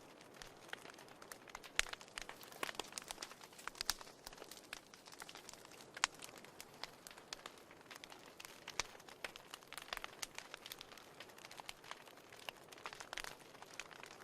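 Wood fire crackling in a fireplace: irregular sharp pops and snaps over a soft hiss, with a quick flurry of snaps near the end.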